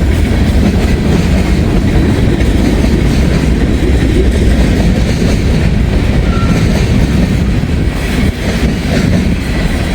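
A long freight train of empty steel gondola cars rolling past at close range, a steady rumble with wheel clatter.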